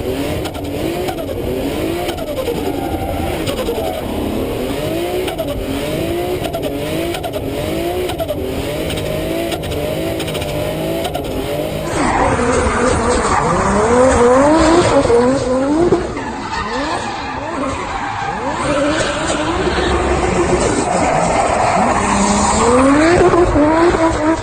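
Toyota Supra Mk4's 2JZ inline-six revving up and down in quick repeated sweeps while drifting, with tyres squealing. About halfway in the sound cuts to another pass that is louder, with the revs rising in sharper sweeps over the tyre noise.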